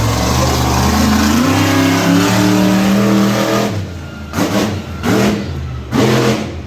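Monster truck engine revving up and holding at high revs for nearly four seconds, then dropping away, followed by three short bursts of throttle.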